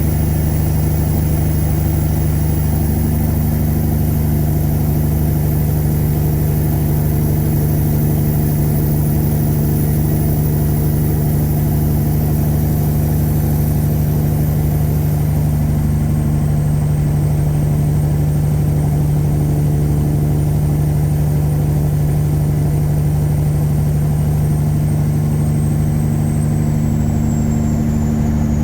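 A tuned Caterpillar 3406E inline-six diesel in a 1999 Freightliner Classic runs at a steady engine speed with a deep, even drone. A thin high whine above it slides slightly lower about halfway through and again near the end.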